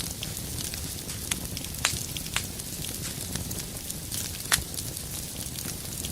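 Fire burning in a fireplace, crackling with frequent small snaps over a low steady rumble. A few sharper pops stand out, the loudest about four and a half seconds in.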